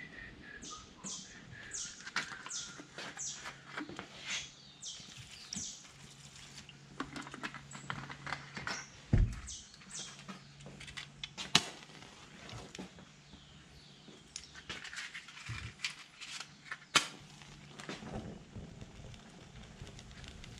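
Small birds chirping in runs of quick, high, descending notes, with a few sharp knocks or clicks standing out now and then.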